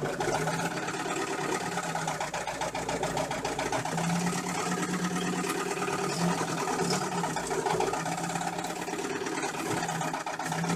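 UMZ-417 four-cylinder petrol engine running at a steady speed with a fast, even knock from under the front timing cover, which the owner takes for a failed camshaft gear.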